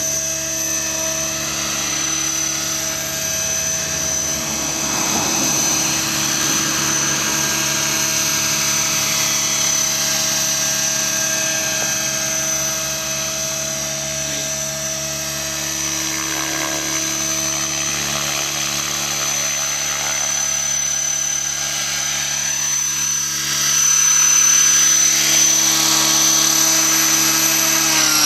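Electric Align T-Rex 600 radio-controlled helicopter in flight: a steady high-pitched motor and gear whine over the buzz of the spinning rotors. It gets louder in the last few seconds as the helicopter comes in close and lands.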